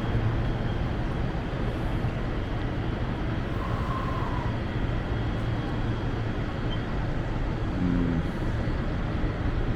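Steady rumble and low hum of a people-mover tram car running along its elevated guideway.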